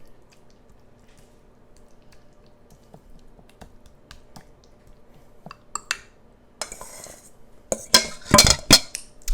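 A spoon or spatula scraping and clinking against a dish while thick dip is spread around it. The sound is faint tapping at first, then a short scrape, then a louder clatter of knocks near the end.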